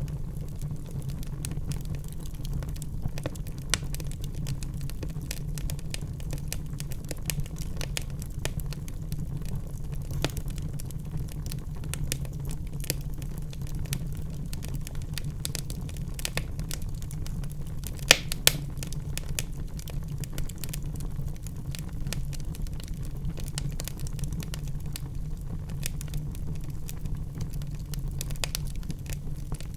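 Wood fire crackling in a fireplace: a steady low rumble of flames with many small irregular snaps. A couple of louder pops come close together just past the middle.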